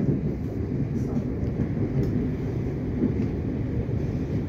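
Cabin noise of a Melbourne Metro electric suburban train running along the track, heard from inside the carriage: a steady low rumble with a couple of faint clicks.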